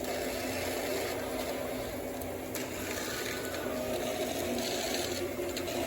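O gauge model trains running on the layout's track: a steady sound of electric motors and wheels on rail.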